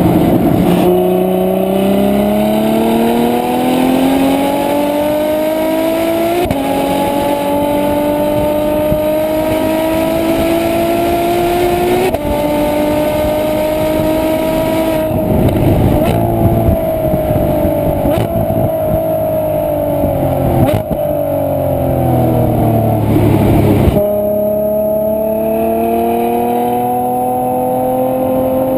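Ferrari F12 Berlinetta's V12 engine and exhaust pulling hard, its pitch climbing steadily with two upshifts, about six and twelve seconds in, then dropping as it slows. Near the end it builds again in a long, steady rise.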